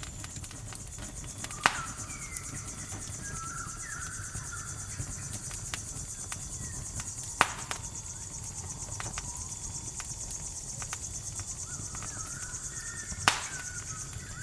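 Crickets trilling steadily over a crackling campfire, with three sharp, loud pops spaced about six seconds apart. Faint short chirping calls come and go in the background.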